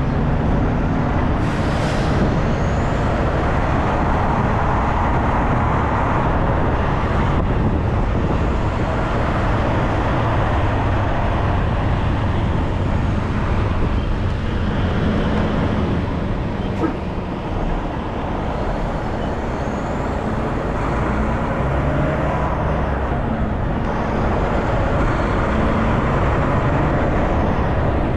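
Truck engine running under way with steady road noise, its low hum shifting slightly in pitch now and then.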